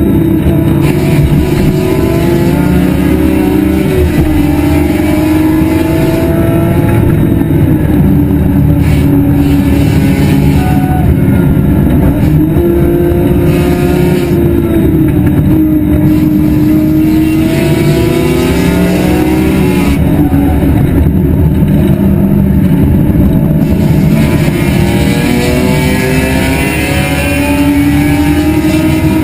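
BMW E46 M3's straight-six engine at racing speed, loud, its revs repeatedly climbing and then dropping as the car accelerates, shifts and brakes through the corners.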